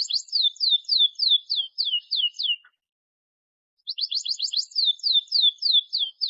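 Canary singing: two song phrases about a second apart, each opening with a quick run of short notes that slows into a series of downward-sweeping whistles.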